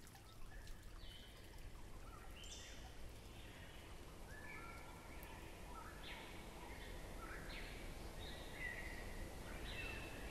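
Birds chirping in a series of short, repeated calls over a steady low background of outdoor ambience.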